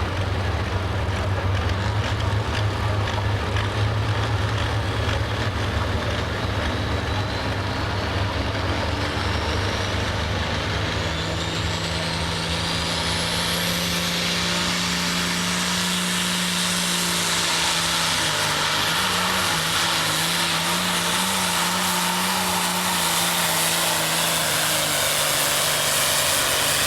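Turbocharged diesel pulling tractor's engine running hard while pulling the sled. A deep rumble comes first, then a whine that rises in pitch over several seconds, then a steady drone.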